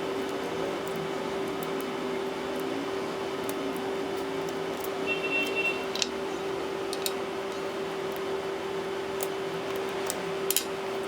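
Small clicks and taps of hand tools and tablet parts being handled, a dozen or so scattered through, with a brief high squeak about five seconds in, over a steady hum.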